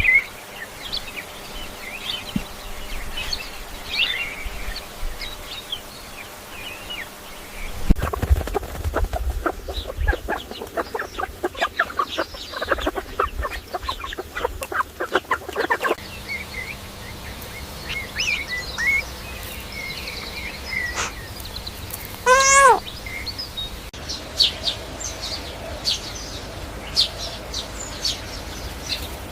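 Chickens calling in a mix of short chirps and clucks, with a dense run of quick calls in the middle. About two-thirds of the way through comes one short, louder squawk that bends in pitch.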